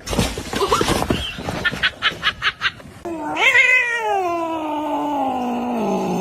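A cat yowling: one long drawn-out caterwaul starting about three seconds in, rising briefly and then sliding slowly down in pitch. It is preceded by a noisy scuffle and a quick run of about six short sounds.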